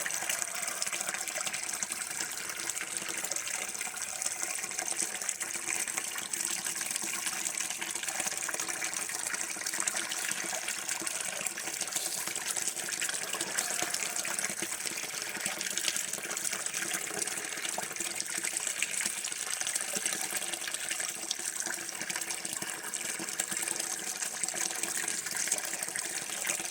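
Water running steadily from a tap, a continuous even gush.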